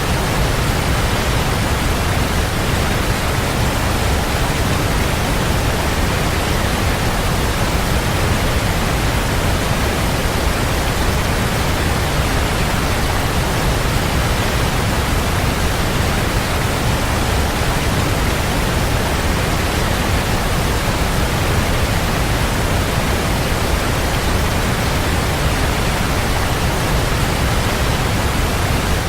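Waterfall: a steady, even rush of falling water, deep and unchanging.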